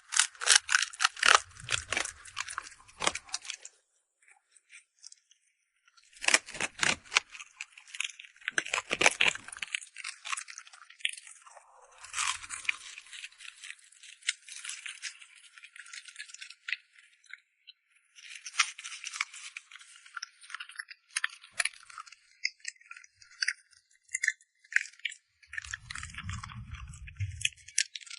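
A dog chewing and crunching food: rapid crackling clicks in bursts, broken by short pauses.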